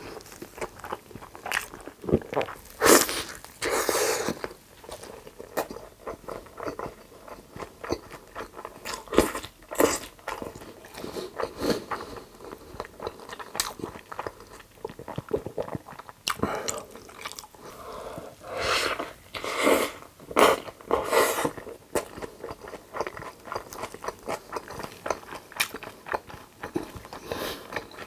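Close-miked chewing of a mouthful of hamburger: irregular wet mouth sounds and short bites, with louder bursts about three to four seconds in and again around twenty seconds in.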